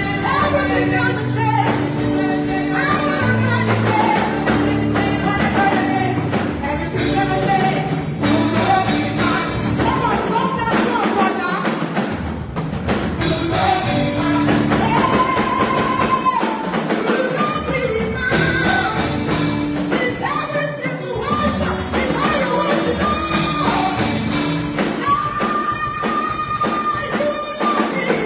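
Gospel worship music: singers holding long melodic lines over a band with a sustained bass line and light percussion.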